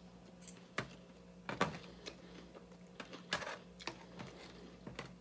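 Eating sounds: a mouthful of salad being chewed, with scattered small crunches and clicks, and a plastic fork picking at a clear plastic takeout container near the end.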